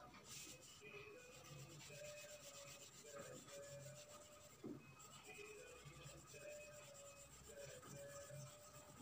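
Faint scratching of a drawing tool rubbed back and forth on paper, with soft background music underneath.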